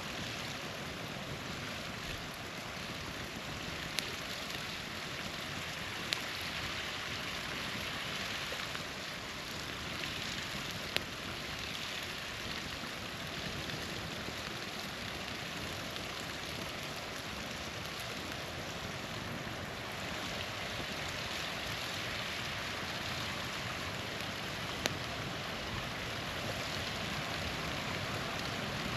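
Steady rush of a small waterfall, with a campfire's wood popping sharply four times.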